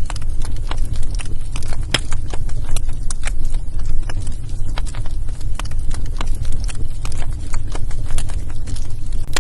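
Wood fire crackling in a fireplace: irregular sharp pops and snaps, several a second and of varying strength, over a steady low rumble.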